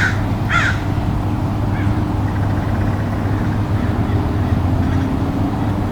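Crows cawing twice in the first second, with a fainter caw about two seconds in, over a steady low hum and rumble that runs throughout.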